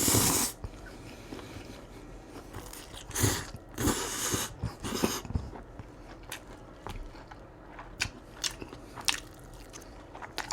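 Close-miked eating of crispy fried food: a loud crunchy bite at the start, a run of crunching chews about three to five seconds in, then quieter chewing with small sharp mouth clicks.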